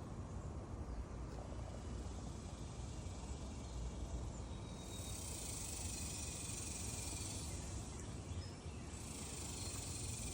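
Insects droning outdoors in high-pitched stretches of a few seconds each: one starts about five seconds in, and another comes near the end, over a steady low rumble.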